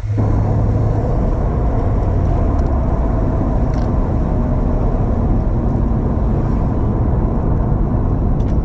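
Engine and road noise heard inside the cabin of a 2007 Subaru Impreza WRX STI while driving, a steady low rumble; no shifter rattle stands out, the Cobb short shifter's rattle having been fixed.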